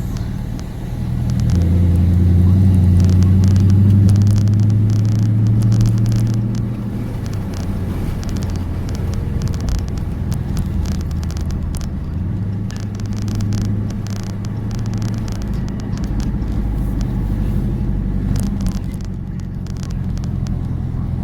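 A car engine running steadily with a low drone, swelling louder for a few seconds near the start and settling back.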